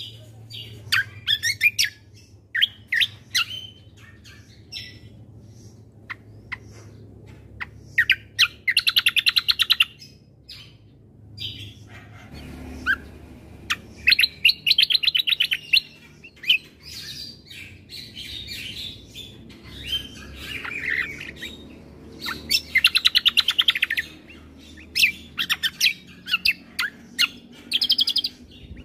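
Kecial kombo (cucak kombo) songbird singing in short bursts of rapid, chattering trills, with sharp single chips between the phrases and several longer fast trills.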